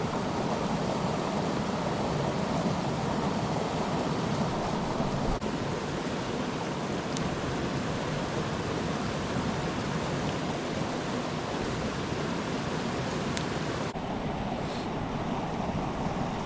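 Campfire of dry firewood burning fast: a steady rushing of flames with a couple of faint pops.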